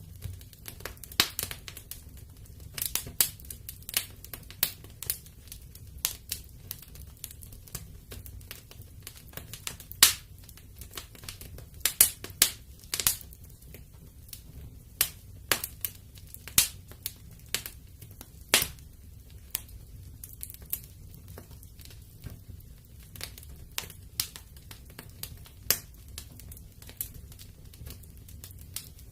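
Wood fire crackling in a fireplace: irregular sharp pops and snaps, a few of them much louder, over a low steady rumble of the flames.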